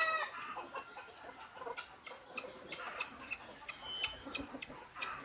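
Chickens clucking, with scattered short calls and chirps and a pitched call fading out at the very start.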